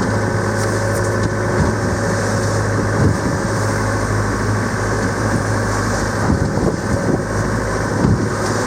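Training motorboat's engine running steadily underway, a constant low hum.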